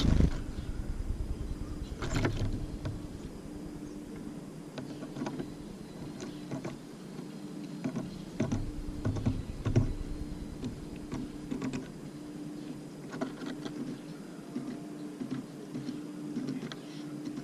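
Tits at a feeder close to the camera: irregular clicks and taps from beaks and claws on the feeder, with a few heavier thumps as birds land, over a steady low hum.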